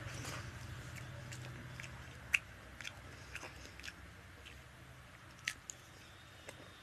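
Close-up eating sounds of a person chewing a mouthful of fish curry and rice, with scattered short, sharp mouth clicks. The loudest click comes a little over two seconds in, and another about five and a half seconds in.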